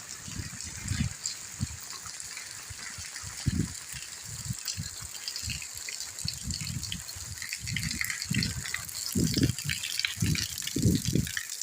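Steady rain hiss, with irregular deep thumps that come more often and louder in the second half.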